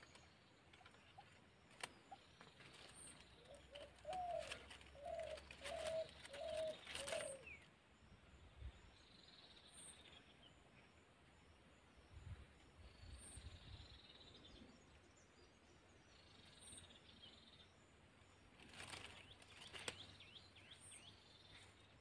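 A bird calling in a quick series of about six short, low notes, then fainter high bird calls. Near the end there is a brief rustle of dry leaves and twigs.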